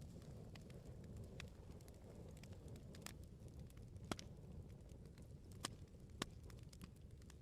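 Wood bonfire crackling, with irregular sharp pops and snaps over a soft low rumble of the burning logs.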